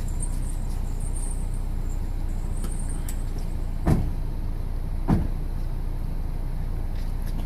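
Steady low rumble of an idling vehicle, with two dull thumps a little over a second apart around the middle.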